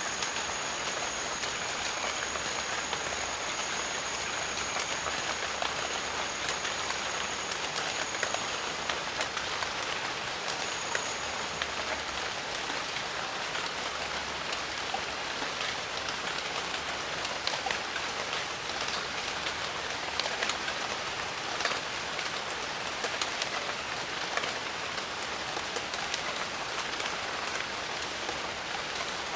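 Steady rain falling on jungle foliage: a constant hiss with many sharp individual drop hits. A thin, high, steady tone runs through the first eight seconds or so and comes back briefly near the middle.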